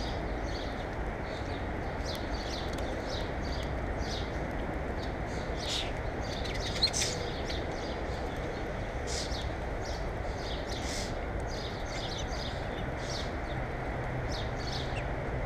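Small birds chirping in short, repeated calls over a steady low background rumble, with one sharp click about seven seconds in.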